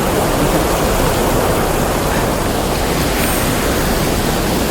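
Small waterfall on a river: water rushing and splashing over the falls in a steady, loud, even roar.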